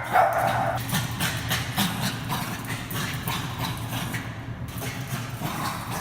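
Bichon Frise barks once, sharply, right at the start, then paws and claws click and patter on the floor as the dogs run about. A steady low hum runs underneath.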